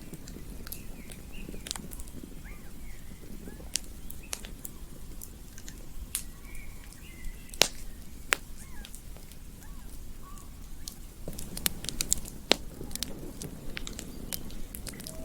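Campfire crackling, with sharp pops scattered irregularly over a low rumble of burning wood, and faint short bird chirps in the background.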